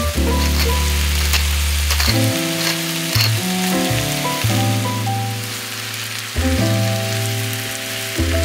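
Food sizzling in hot oil in a frying pan, a steady crackling hiss with a few sharp clicks, over background music of held chords and a bass line.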